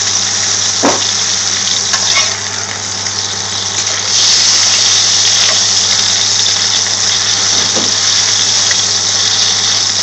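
Lamb mince shami kebab patties sizzling in a shallow layer of hot vegetable oil in a frying pan, the sizzle growing louder about four seconds in. A slotted metal spatula scrapes against the pan twice, once about a second in and again near the end.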